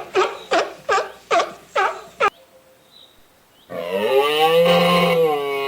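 Animal calls: a quick run of short calls, about two to three a second, stops about two seconds in. After a pause, a single long drawn-out call with a rising and falling pitch starts near the end.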